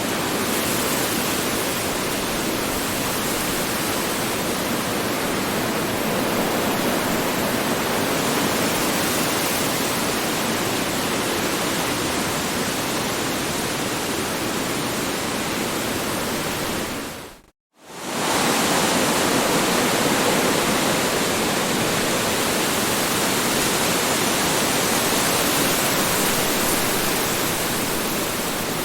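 Strong wind blowing steadily, a dense rushing noise that briefly fades to silence and straight back in a little past halfway.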